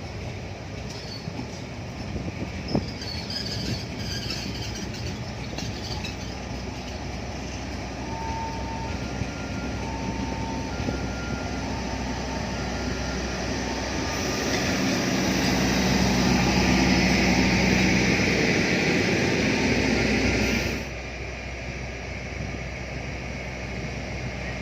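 A train running past on the rails. Short repeating beeps come about once a second midway through, then the train noise grows louder and stops abruptly near the end.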